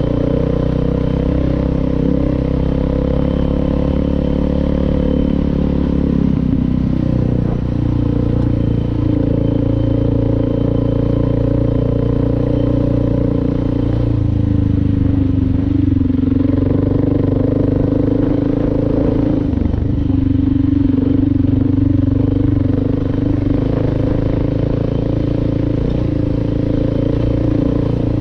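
Suzuki DR650's single-cylinder four-stroke engine running steadily under way, its pitch shifting several times.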